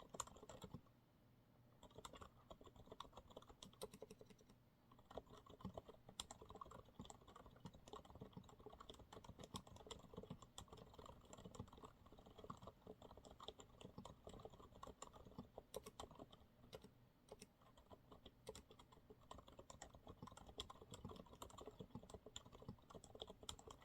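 Faint, steady typing on a Monsgeek MG108W keyboard with TTC silent brown switches: a continuous patter of soft, dampened keystrokes, with a short pause about a second in.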